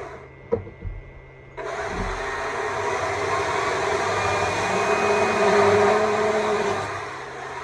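Stihl MSA 200 C battery chainsaw: the motor drops out for about a second and a half, with a sharp click and a couple of low knocks, then spins back up and runs at speed with a steady whine.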